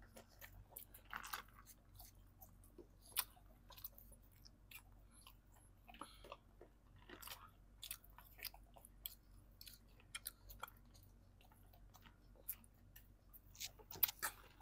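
Close-miked chewing and mouth sounds of people eating french fries, with scattered small clicks and soft crunches.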